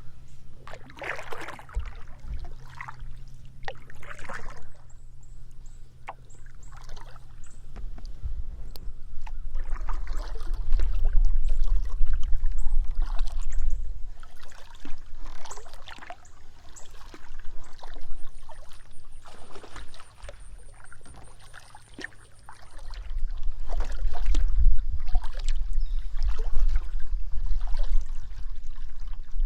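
Paddle strokes in the water from a small hand-paddled boat, repeating every second or two, with water dripping and trickling off the blade.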